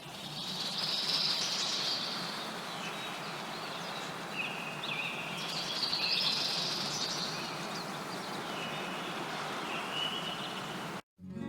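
Forest ambience: small birds singing in repeated high, warbling phrases over a steady background hiss. The ambience cuts off sharply near the end, and plucked acoustic guitar music starts.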